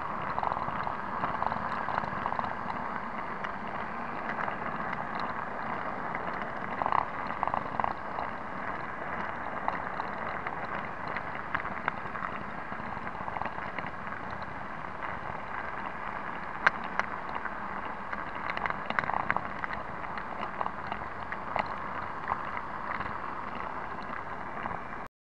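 009 narrow-gauge model diesel locomotive running along the track, a steady whirring rattle with scattered sharp clicks and ticks.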